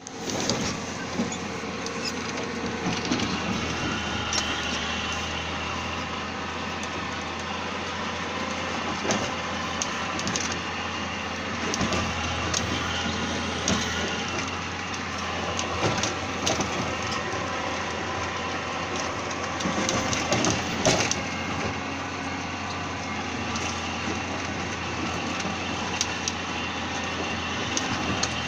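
Caterpillar motor grader's diesel engine running steadily under a low drone, with scattered sharp knocks and cracks over a constant grinding, crunching noise.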